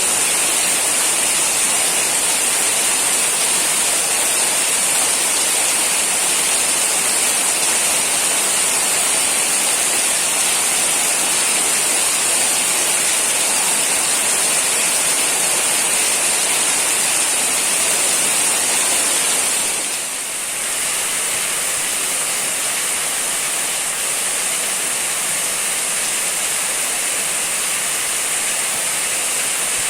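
Heavy rain pouring down steadily, a dense, even hiss of water. About two-thirds of the way in the sound dips briefly, then carries on slightly quieter.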